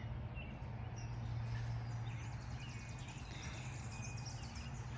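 Small birds chirping in short scattered calls over a steady low hum.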